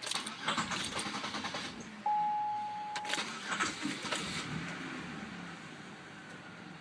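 Buick Rendezvous 3.4-liter V6 being cranked by the starter and starting, then settling into a steady idle. A single steady electronic chime tone sounds for about a second, starting about two seconds in.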